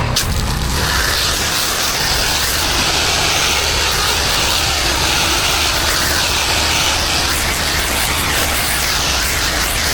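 Pressure washer spraying water: a steady high-pressure hiss over the low drone of its engine, starting with a sharp click at the outset.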